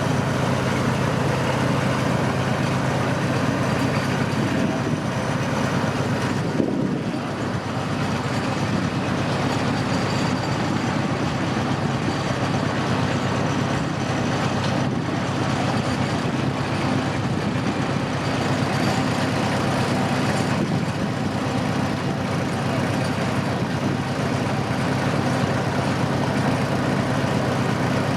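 Tourist train running steadily, heard from aboard: a steady low engine hum under a constant rolling rumble, dipping briefly about seven seconds in.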